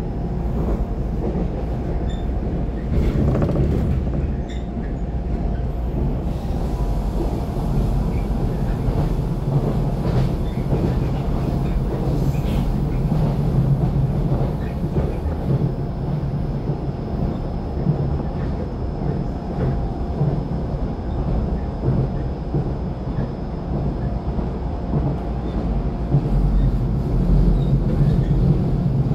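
Interior running noise of a Taiwan Railway EMU700 electric commuter train at speed: a steady low rumble of wheels on rail, with a faint high whine holding through much of the later part.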